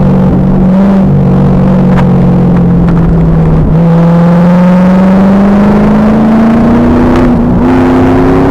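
Pontiac Trans Am Firehawk's 5.7-litre LS1 V8 under hard load on track. It runs at steady revs, dips briefly about three and a half seconds in, then climbs steadily in pitch as the car accelerates. The recording is very loud and rough-sounding.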